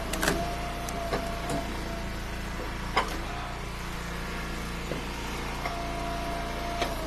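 Gas engine of a hydraulic log splitter running steadily, with a few sharp knocks of firewood being handled. About six seconds in, a thin steady whine sets in over the engine.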